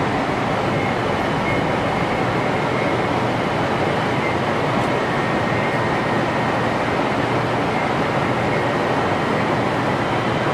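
Cabin running noise of a 500 Series Shinkansen in motion: a steady rush of wheel-on-rail and air noise, with a faint thin high whine riding over it.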